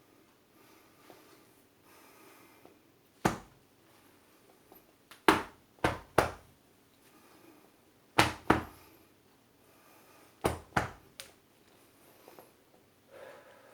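A person's short, forceful breath bursts in a small room, nine sharp blasts in groups: one, then three, then two, then three.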